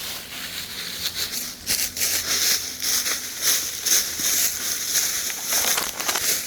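Dry grass and brush rustling and crackling underfoot in uneven, crunchy steps as someone walks through vegetation.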